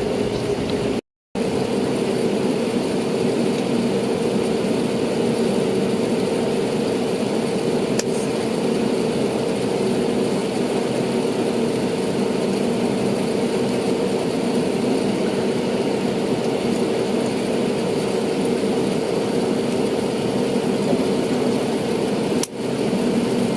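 Steady airliner cabin noise of an Airbus A320neo: an even rushing hiss with a constant low engine hum. It cuts out completely for a moment about a second in and dips briefly near the end.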